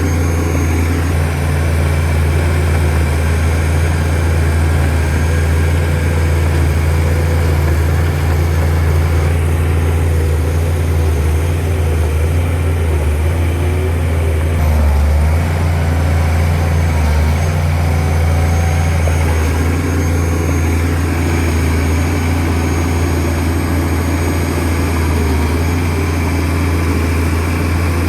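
Shantui DH17C2 bulldozer's diesel engine running steadily, a deep even engine drone with little change in pitch.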